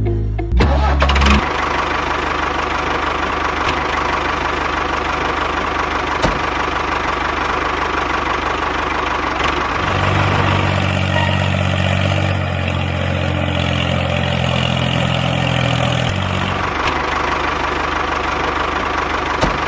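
A motor running steadily, with a deeper humming note joining in from about ten to sixteen seconds in.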